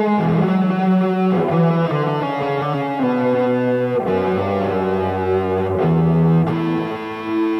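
Early-1980s made-in-Japan Fresher FRS SS-40 electric guitar being played: ringing notes and chords that change about every second.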